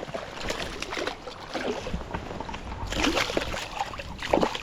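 Creek water splashing and sloshing in irregular bursts, with a louder patch of splashing about three seconds in and another near the end.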